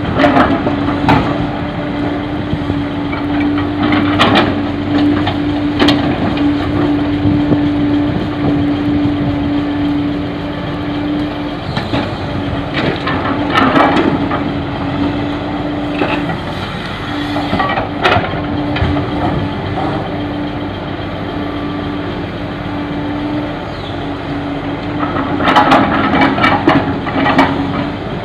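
Heavy diesel engine running with a steady hum, broken by bursts of clattering knocks every several seconds as fill soil is loaded into a dump truck.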